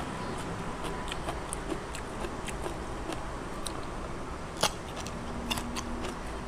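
Close-up eating sounds: scattered small wet clicks and smacks of chewing, with one sharp crunch about four and a half seconds in as a raw red radish is bitten.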